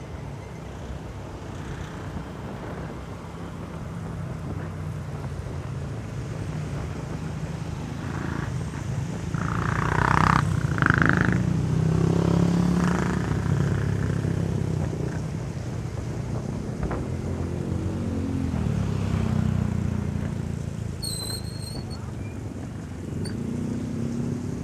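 Motorcycle engine running while riding, with wind noise on the microphone. The engine climbs in pitch and gets louder as it speeds up around the middle and again later on. A brief high sound cuts in about ten seconds in.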